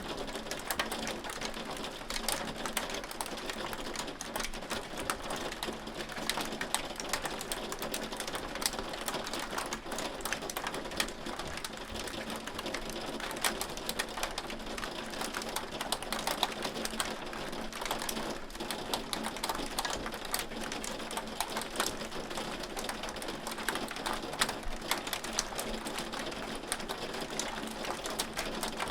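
Hail falling: a dense, steady stream of sharp ticks over an even hiss.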